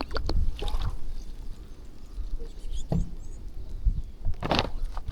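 Flock of small birds feeding on scattered rice and water: scattered pecking taps and splashy scuffles, with a louder scuffle about four and a half seconds in and a few brief high chirps, over a low rumble.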